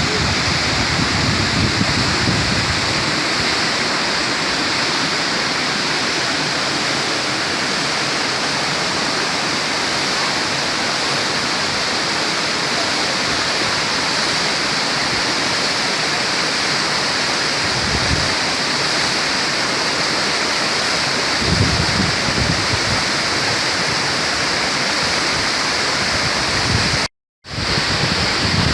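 Steady rush of a waterfall pouring down a granite rock face, with a few low rumbles mixed in. The sound drops out for a moment near the end.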